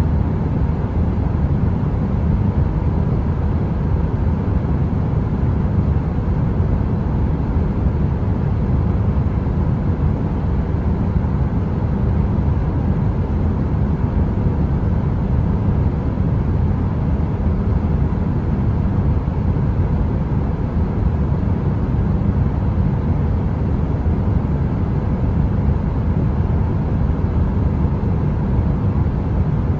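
Steady, deep heater noise in the manner of brown noise: an even rumble heavy in the bass and thin in the treble, with no crackle and no change.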